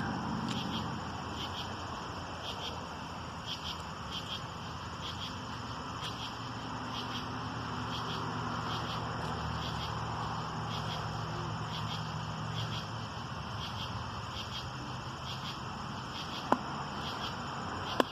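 Crickets chirping in a steady, rhythmic chorus over a low, even background hum, with one sharp click near the end.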